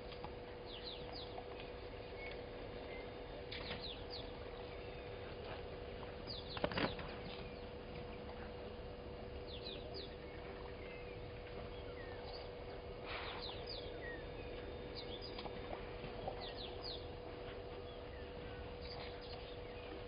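Scattered short bird chirps that fall quickly in pitch, over a steady low hum. A single sharp knock about seven seconds in is the loudest sound.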